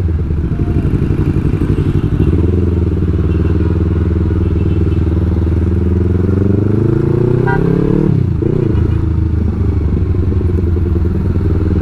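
Yamaha R3's parallel-twin engine running while being ridden, its revs climbing steadily for several seconds and then dropping sharply about eight seconds in, as at a gear change or a closed throttle.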